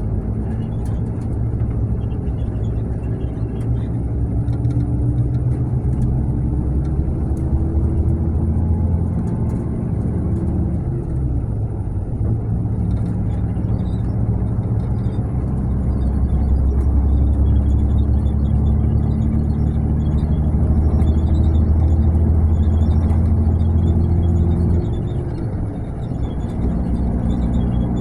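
Mercedes-Benz coach diesel engine running under way with tyre and road noise. Its pitch climbs slowly, drops about a third of the way in, then climbs again and drops near the end.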